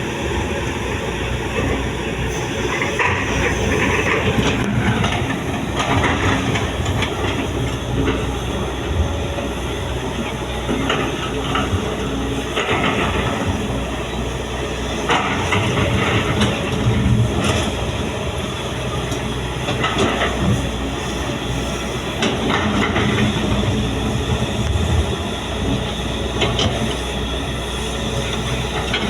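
Volvo excavator and dump truck diesel engines running steadily, with metal clanks and scraping every few seconds as the machines work.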